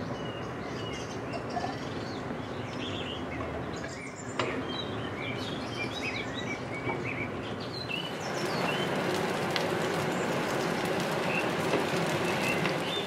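Chopped scallions and shallots, then rice, sizzling in oil in a wok as a spatula stirs them, with short bird chirps over the top. The sizzle gets louder about eight and a half seconds in.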